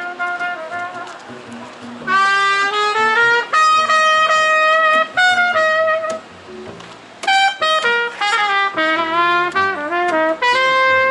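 Music: a brass instrument, trumpet-like, playing a melody of held notes and quick runs, with a brief pause about two-thirds of the way through.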